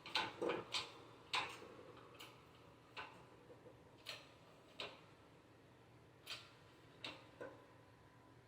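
Light knocks and clicks at irregular intervals, a quick cluster near the start and then one every second or so: tools and parts being handled during work on a Chevy 10-bolt rear differential.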